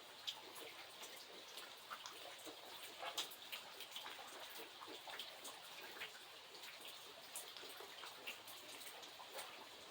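Light rain falling steadily, with separate drops ticking irregularly on a hard surface.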